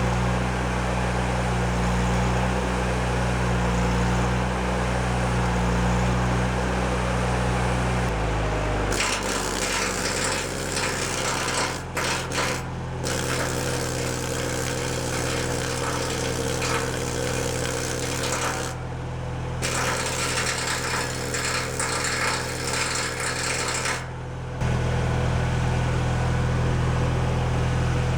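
A portable engine-driven welder running. About eight seconds in the engine drops in pitch under load, and for roughly fifteen seconds there is a crackling arc noise, like stick welding, broken by a few short pauses. The engine then goes back to its steady unloaded hum.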